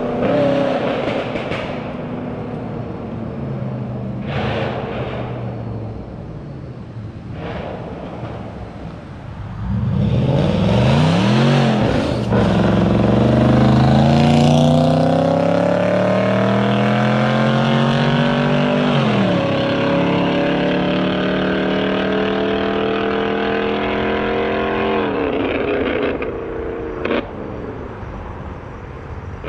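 BMW 545i's 4.4-litre V8 exhaust, fitted with an H-pipe, running steadily, then pulled hard about ten seconds in. The pitch climbs through one gear, drops sharply at an upshift, climbs again through the next gear, then drops back as the car eases off.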